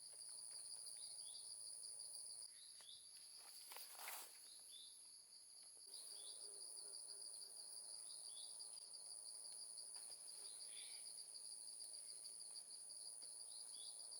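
Faint, steady high-pitched insect chorus running throughout, with short high chirps scattered through it and a brief rustle about four seconds in.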